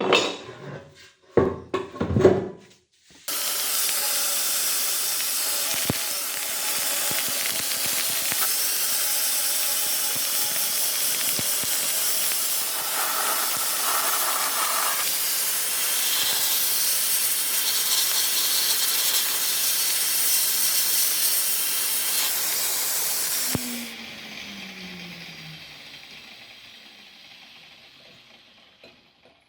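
A few knocks, then a loud, steady hiss from a workshop air or spray tool that runs for about twenty seconds before dying away.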